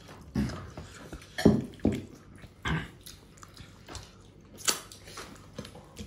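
Eating sounds of rice and curry: a string of irregular wet chewing, biting and smacking noises, the loudest about one and a half seconds in.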